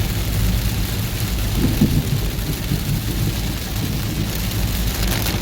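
Rain falling on a moving car, a steady hiss over the low, constant rumble of the car on the road.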